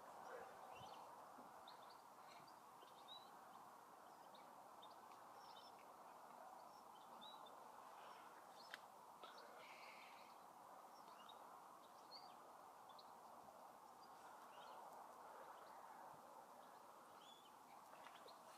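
Near silence: faint outdoor background hiss with scattered faint bird chirps.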